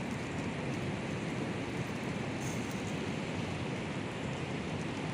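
Food sizzling on a barbecue grill: a steady hiss with a couple of faint crackles.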